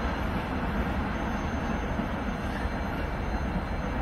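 A train passing through a station on a far track: a steady rumble of wheels on the rails.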